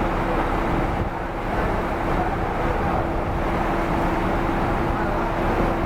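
Scania K410 coach under way: steady engine and road noise with a constant low hum.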